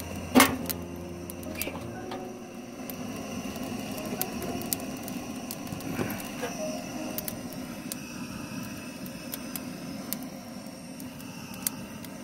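Butane gas torch running with a steady rushing hiss as it is held on wood to light it, with scattered sharp crackling ticks and one loud click about half a second in.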